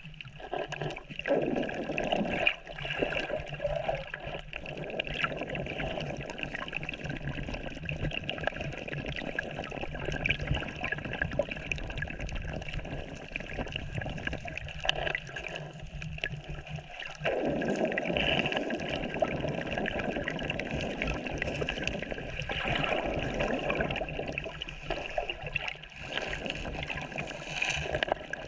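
Shallow sea water sloshing and gurgling, in uneven swells that rise and fall every few seconds.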